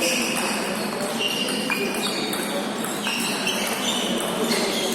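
Table tennis balls clicking on the tables and bats, many short pings at irregular intervals, from several games at once in a hall.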